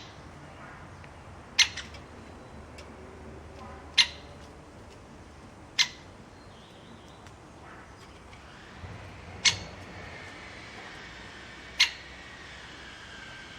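A bird giving short, sharp calls, five in all, spaced about two to four seconds apart, with faint thin whistles from other birds in the background during the second half.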